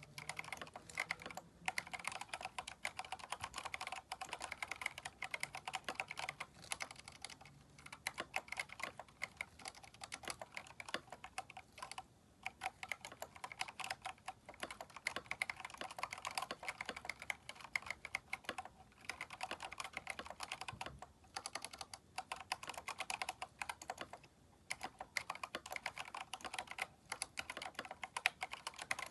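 Keychron K4 mechanical keyboard, fitted with aftermarket keycaps, being typed on steadily: rapid keystroke clacks in runs, broken by short pauses every few seconds.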